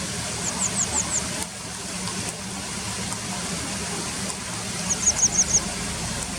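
Grey wagtail calling: two quick runs of about five sharp, high chips, one near the start and one about five seconds in. A steady rush of river water runs underneath.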